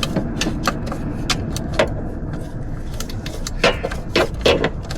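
Irregular sharp metallic clinks and taps of a socket wrench and fasteners being worked by hand, about eight in all, loudest in the second half.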